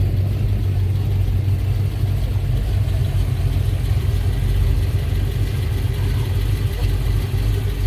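A classic car's engine idling close by, a steady low rumble that holds an even pace without revving.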